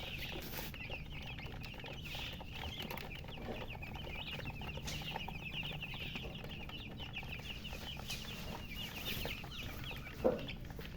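Many baby chicks peeping together in a dense, continuous chatter of short high chirps, which the uploader puts down to thirst for water. A single thump about ten seconds in.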